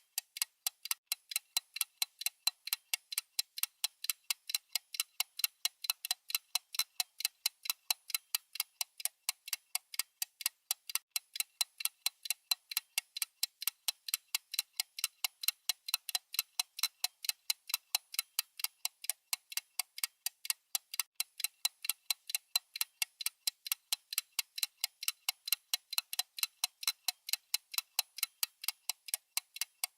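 Countdown timer's clock-ticking sound effect: fast, even, sharp ticks, several a second, light and high with no low end, keeping steady time.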